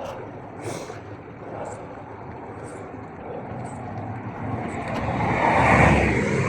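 A motor vehicle passing, its noise swelling to its loudest about six seconds in, over the steady hiss of bicycle tyres rolling on a wet surface.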